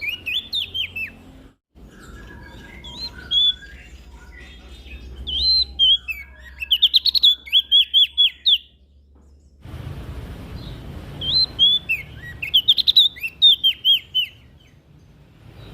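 Prenjak daun songbird singing: phrases of quick, high, sweeping chirps, each a second or two long, repeated several times with pauses between. A low background hum cuts in and out abruptly between the phrases.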